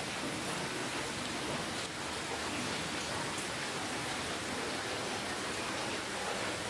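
Steady rainfall: a dense, even hiss of rain, with faint individual drops pattering on a surface.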